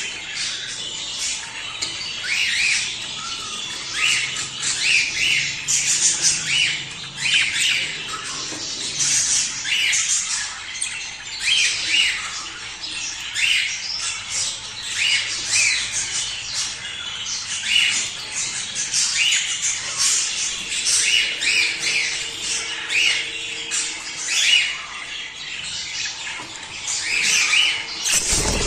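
A flock of budgerigars chattering, with many short sharp chirps and squawks overlapping in a continuous warble. Near the end comes a brief loud rush of noise.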